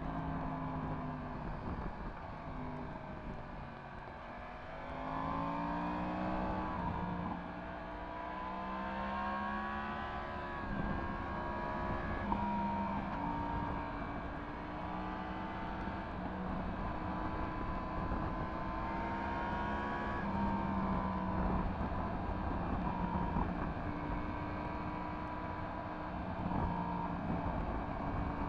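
Yamaha MT-10 SP's crossplane inline-four engine through an Akrapovic exhaust, pulling and easing off while riding, its pitch climbing and dropping several times as the throttle opens and closes.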